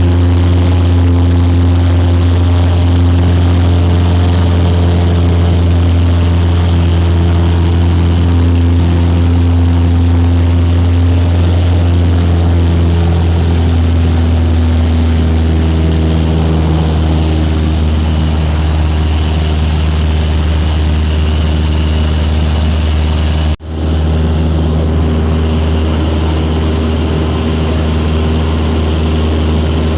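Small two-seat light aircraft's engine and propeller running steadily, the pitch shifting slightly about halfway through. The sound drops out for an instant about three-quarters of the way through.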